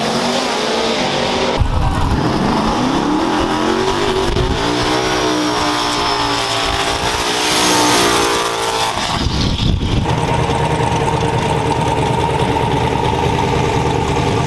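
Turbocharged drag-race truck engine accelerating hard, its pitch climbing for several seconds with a high whistle rising over it. About nine to ten seconds in it drops off to a steady, lower running note.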